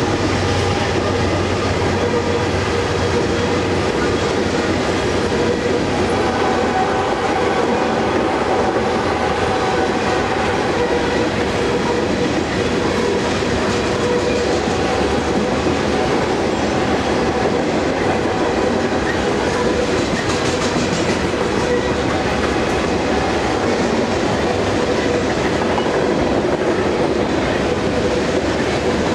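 Loaded covered hopper cars of a grain train rolling past at close range: a loud, steady rumble and clatter of steel wheels on rail, with a few thin steady tones over it.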